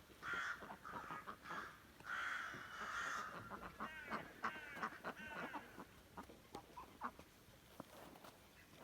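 Farmyard poultry calling: two long, harsh calls in the first three seconds, then a run of shorter, higher calls, with small scattered clicks throughout.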